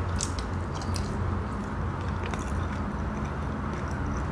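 Close-up mouth sounds of a person biting into a fried snack and chewing it, with a few sharp, crisp clicks in the first second and another short run about two seconds in, over a steady low background rumble.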